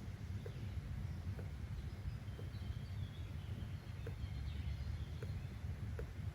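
Steady low rumble of background ambience, with faint bird chirps high above it and a faint tick roughly once a second.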